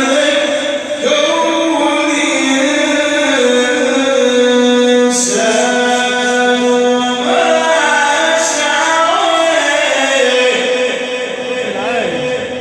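Male Quran reciter chanting a long melodic elongation, holding sustained notes with the pitch stepping up and down between them, then fading near the end.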